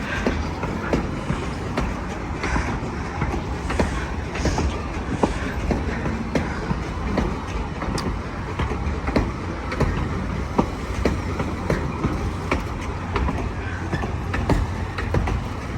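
Two-foot narrow-gauge train rolling along the track: a steady low rumble with wheels clicking irregularly over the rail joints.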